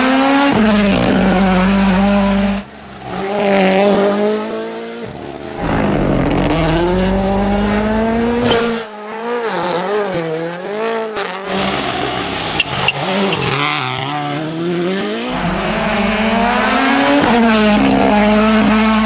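Rally cars at full throttle, engines revving up and dropping in pitch as they shift gears and brake, in several short loud passes cut one after another.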